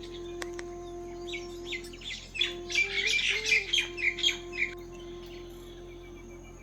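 Birds chirping in a quick run of short calls that is loudest in the middle and stops about three-quarters of the way through, over background music of long held notes.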